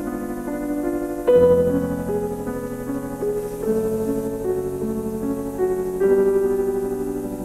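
Background piano music, slow and gentle, with chords changing every second or two.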